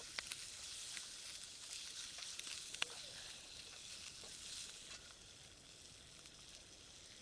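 Chicken skin frying in its own fat in a small frying pan over a wood fire: a steady sizzle that eases slightly toward the end. A few sharp clicks come from chopsticks against the pan as the pieces are stirred.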